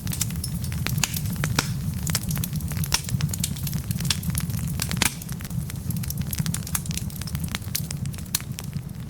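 Wood logs burning in a fireplace: frequent irregular sharp crackles and pops over a steady low rumble of the flames.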